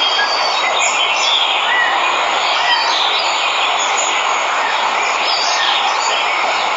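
Steady rush of a waterfall with many birds chirping over it, short calls coming and going throughout.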